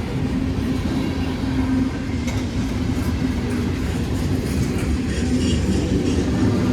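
Cars of a long CSX freight train rolling past, steel wheels running over the rails with a steady rumble and a few clicks at the rail joints.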